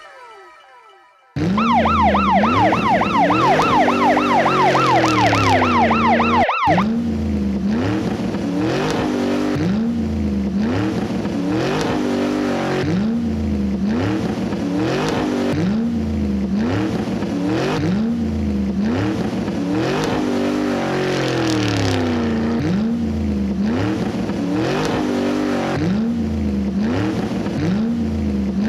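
Electronic police-siren sound. For about five seconds it warbles up and down very fast, then it cuts off sharply and is followed by a slower, steadily repeating rise-and-fall pattern.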